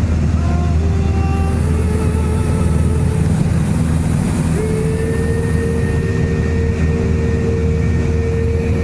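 Small propeller aircraft's engine and propeller drone heard from inside the cabin in steady cruise, a loud, even, low hum.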